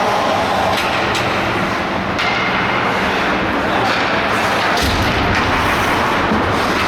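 Ice hockey play: a steady scrape and hiss of skates on the ice, broken by several sharp knocks of sticks and puck.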